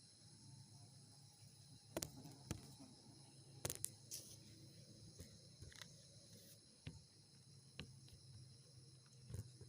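Faint, steady, high-pitched insect chorus, with about ten short sharp clicks and knocks scattered irregularly through it.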